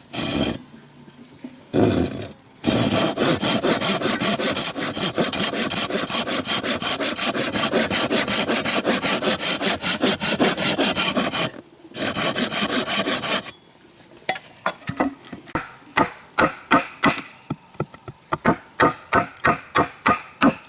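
Hand saw cutting through wood with fast back-and-forth strokes, pausing briefly, then slowing to separate strokes near the end.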